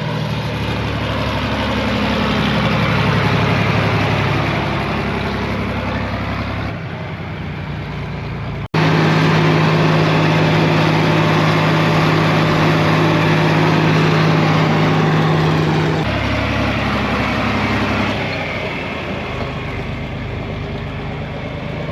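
John Deere 4000 tractor engine running steadily under way on the road, with a sudden break about nine seconds in and small shifts in pitch and loudness where driving clips are cut together.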